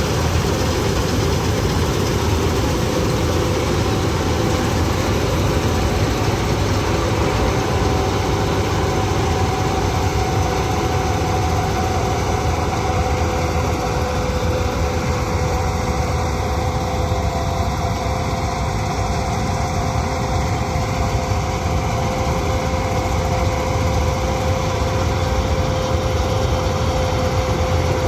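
Gurdail combine harvester running steadily, its engine and machinery holding a constant pitch.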